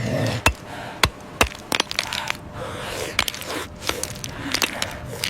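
Irregular sharp cracks and crunches, about a dozen of them, over a rustling, noisy background.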